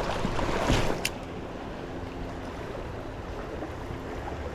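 River water rushing steadily. About a second in there is a single sharp click, and after it the rush is a little quieter.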